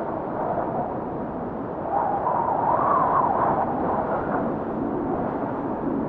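Snowstorm wind blowing in a steady rush, with a howl whose pitch wanders up and down and that swells about two seconds in, then fades.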